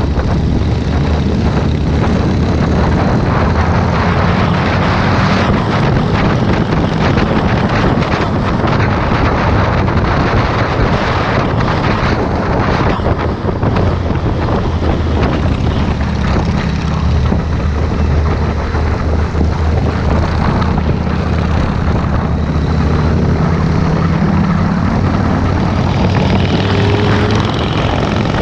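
Motorcycle engine running at road speed under heavy wind noise on the microphone, its low drone shifting in pitch now and then.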